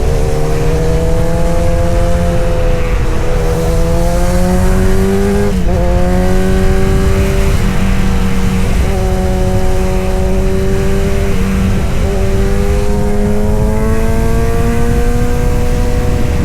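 Kawasaki Z900 inline-four engine and exhaust running under way at steady mid revs. The note climbs slowly and dips briefly about every three seconds, as the throttle is eased and reopened or a gear is changed.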